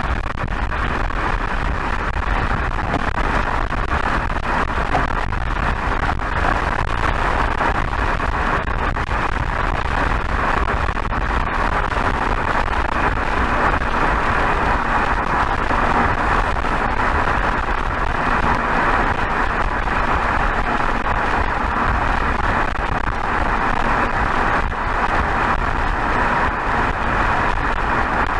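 BMW 320xd's 2.0-litre four-cylinder turbodiesel (B47) cruising steadily at highway speed, heard from a microphone next to the exhaust: an even exhaust drone under a constant rush of wind and road noise, with no change in revs.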